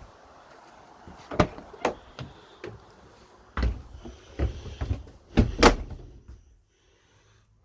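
Caravan entrance door being opened and shut: a string of clicks and knocks, the loudest about five and a half seconds in.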